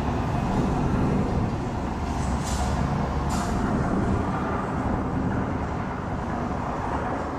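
Distant fireworks display: a continuous deep rumble of many bursts run together, with two short hisses about two and a half and three and a half seconds in.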